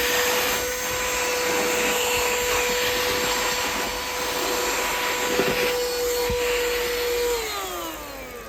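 XREXS cordless handheld vacuum running with a steady motor whine and airflow hiss, with a couple of clicks from small pebbles being sucked up. Near the end it is switched off and the motor winds down in a falling whine.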